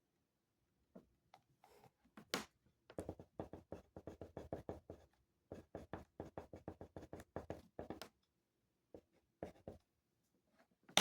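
Handwriting on paper: quick runs of short scratching strokes, faint and close, that start about two seconds in, break briefly in the middle and thin out to a few strokes near the end.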